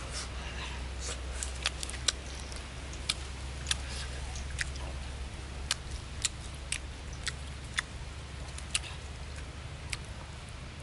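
Mouth smacks and clicks of someone chewing grilled sausage, short sharp sounds at an irregular pace of roughly one or two a second, over a low steady hum.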